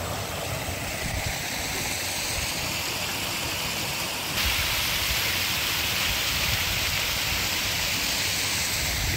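Rain falling in a steady hiss, which grows louder about four and a half seconds in.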